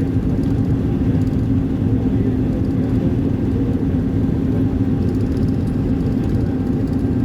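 Road vehicle running at a steady speed: a constant low engine rumble and road noise with a steady hum over it.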